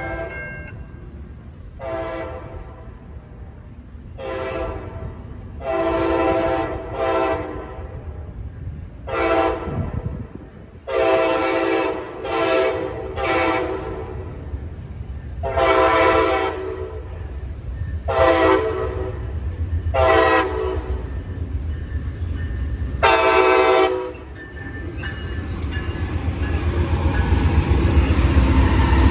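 Horn of an approaching P42DC-led passenger train, sounded in about a dozen blasts, some long and some short. In the last few seconds the low rumble of the locomotives and train grows steadily louder as it pulls in.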